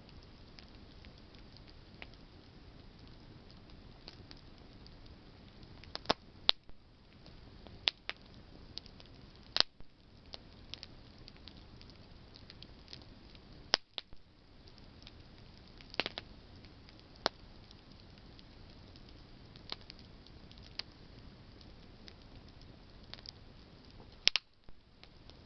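Wood campfire crackling: a low, steady hiss of burning with irregular sharp pops and snaps from the burning branches, a handful of them loud.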